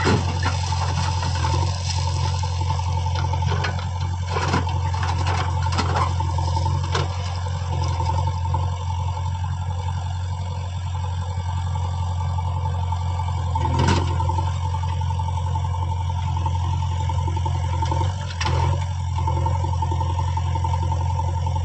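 JCB backhoe loader's diesel engine running steadily with a constant low hum and a steady whine, with a few short knocks.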